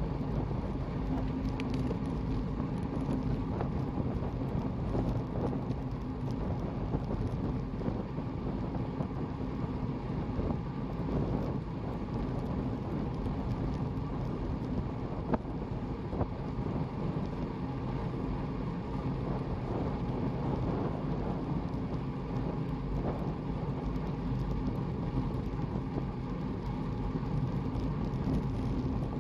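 Steady wind and road rumble on a moving microphone, with a faint steady low hum and a few small ticks.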